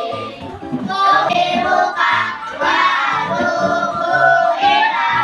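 Children singing a song together in held, sung phrases.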